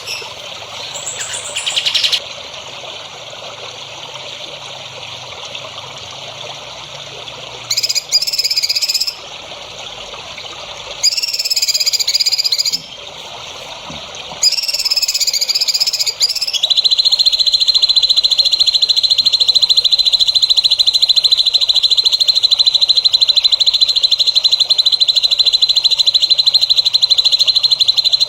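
Songbird recording: short, bright chirping phrases with pauses between them, then a continuous high, very fast buzzing trill at one steady pitch that fills the last eleven seconds or so. Under it runs a steady hiss of trickling water.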